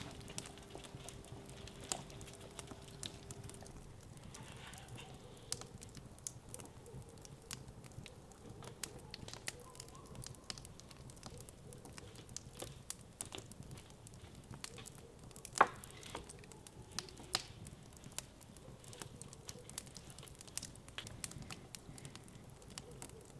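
Wood fire crackling, with irregular small pops and one sharper, louder pop about two-thirds of the way through.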